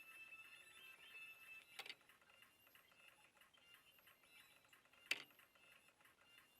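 Near silence with a faint high-pitched hum or tone, broken by two short sharp clicks, the second one louder, about two and five seconds in.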